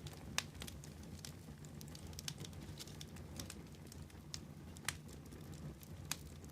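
Wood fire crackling: irregular sharp pops and snaps, a few louder ones standing out, over a low steady rumble of the burning.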